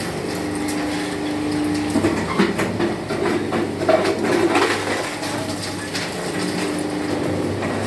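Scrap-metal shredder running with a steady motor hum, then clattering and crunching for a few seconds, about two seconds in, as metal is torn up in its cutters, before settling back to the hum.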